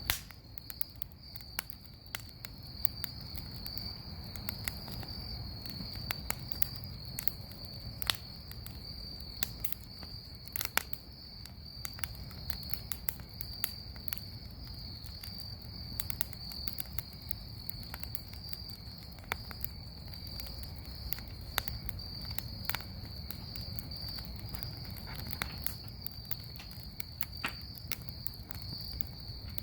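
Bonfire crackling with frequent sharp, irregular pops, over a low steady rumble of the burning fire. Behind it, insects keep up a continuous high-pitched trill.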